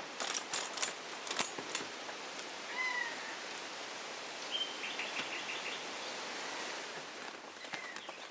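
Wild birds calling over a steady outdoor hiss: a short whistled note about three seconds in, then a call and a quick run of chirps around five seconds. A few sharp clicks in the first two seconds.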